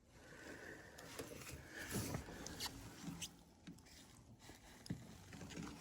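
Faint rustling with light, scattered clicks and scrapes, the sound of small handling movements.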